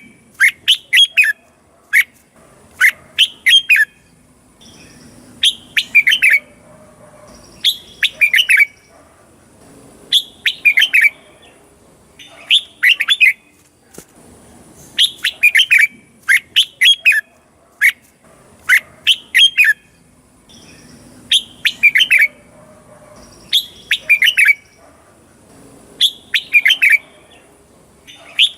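Red-whiskered bulbul singing: short phrases of a few quick notes, repeated every second or two.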